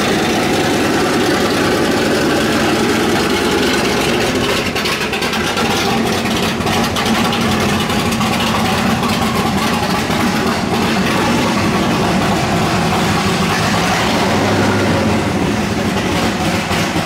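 Built 502 cubic-inch Chevrolet big-block V8 of a 1970 Chevelle SS idling steadily.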